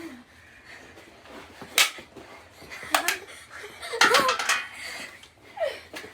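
Knee hockey play: a few sharp smacks of mini hockey sticks on the ball, at about two, three and four seconds in, with short laughs and vocal cries in between.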